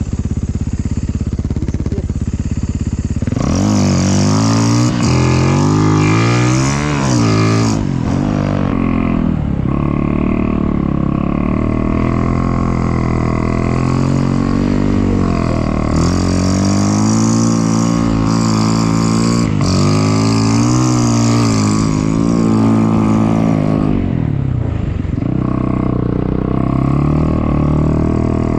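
Snow bike engine revving up and down, its pitch rising and falling over and over. It is lower and steadier for the first three seconds or so.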